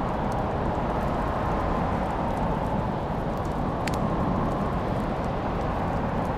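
Wood fire burning in a fireplace: a steady low rushing noise with sparse faint crackles and one sharper pop about four seconds in.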